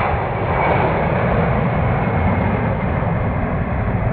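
C-17 Globemaster III's four turbofan jet engines running loud and steady as the transport passes low on final approach, with a deep rumble underneath.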